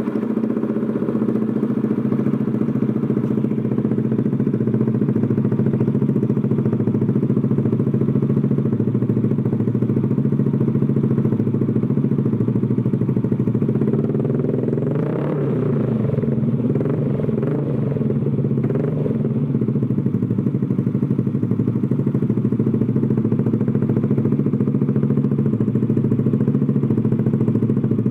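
Yamaha NMax scooter's single-cylinder engine idling steadily through an AR Austin Racing aftermarket exhaust, with a short wavering in pitch about halfway through.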